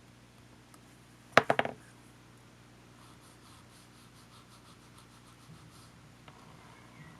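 A quick run of three or four sharp clicks, then faint rapid ticking and a few small knocks: small parts and tools handled while a compact camcorder is taken apart.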